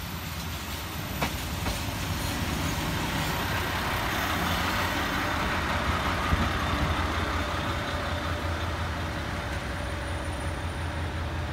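JR Hokkaido KiHa 281 series diesel multiple unit arriving and rolling past along the platform. Its underfloor diesel engines give a steady low drone under the rumble of wheels on the rails, which grows louder over the first few seconds as the cars come alongside, with a sharp click about a second in.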